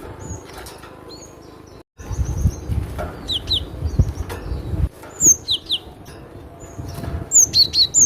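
Cinereous tit (glatik batu) calling: quick, sharp notes that fall steeply in pitch, in groups of two or three, over a low rumbling background noise. The sound cuts out completely for a moment about two seconds in.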